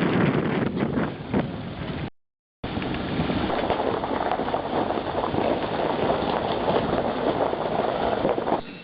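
Steady rushing noise of a four-wheel-drive vehicle travelling a rough track, with wind on the microphone, broken by a half-second dropout about two seconds in.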